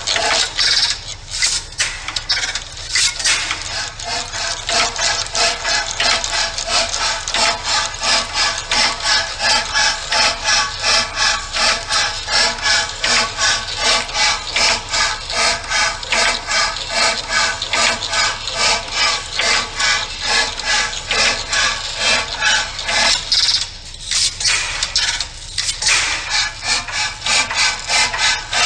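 Hand sawing, likely a hacksaw cutting metal, with even rasping strokes of about two a second. Two short pauses break the rhythm, one just after the start and one near the end.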